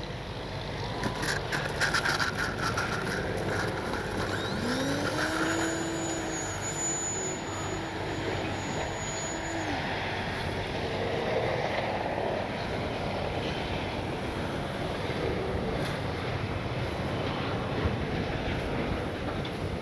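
Gusty wind rushing over the microphone, with the electric motor and propeller of an E-flite Piper Cherokee RC plane whining: the whine rises in pitch about four seconds in as the throttle comes up, holds for a few seconds and then fades.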